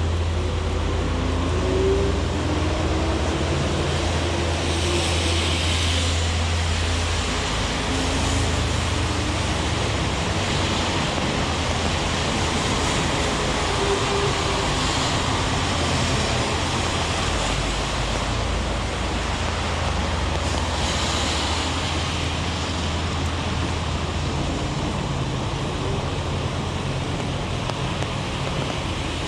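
Heavy rain with city street traffic: a steady hiss of rain, a low vehicle engine hum, and two louder hisses of tyres passing on wet pavement, about five seconds in and about twenty seconds in.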